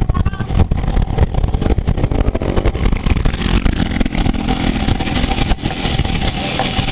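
Wind and road noise of riding at speed in a bicycle road race: a loud, continuous buffeting rumble, with more hiss from about halfway through.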